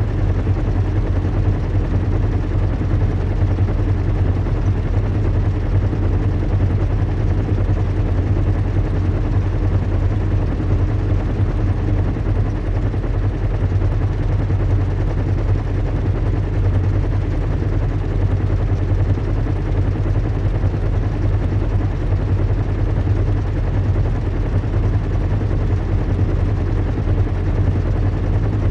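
Steady low rumble and engine hum of a large airship in flight, recreated as an ambient soundscape, with a constant deep drone and a few steady low tones.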